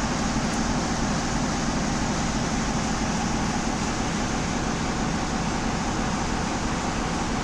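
Standing railway locomotive running with a steady, unchanging drone.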